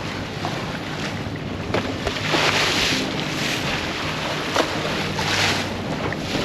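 Water rushing and splashing along the hull of a sailboat under way, swelling in surges every second or two, with wind on the microphone. Low steady tones run faintly underneath.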